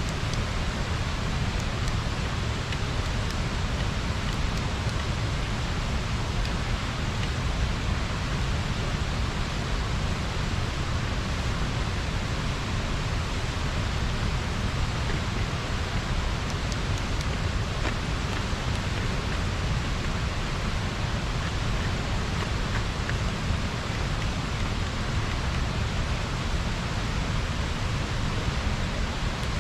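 Water pouring over a small river weir: a steady, unbroken rushing.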